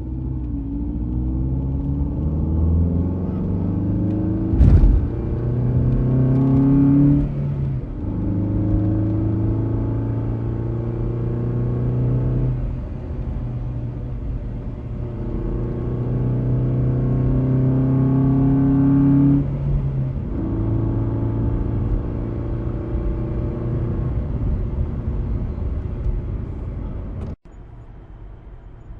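Car engine driving and accelerating through the gears: its pitch climbs, then drops back at a shift, twice over. There is a single thump about five seconds in. The engine sound cuts off abruptly near the end, leaving a quieter background.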